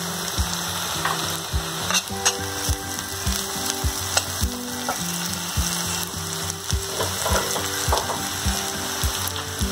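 Onions and green chillies sizzling in hot mustard oil in a steel frying pan, with a slotted steel spatula scraping and knocking against the pan as they are stirred, a few strokes a second.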